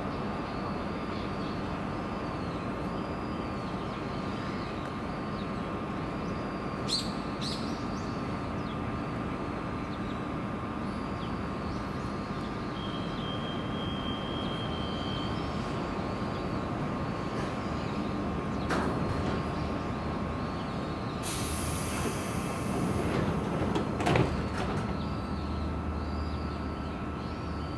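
Electric commuter train standing at a station platform, its on-board equipment giving a steady hum with a high whine. About three-quarters of the way through comes a short burst of air hiss and a clunk from its pneumatic sliding doors.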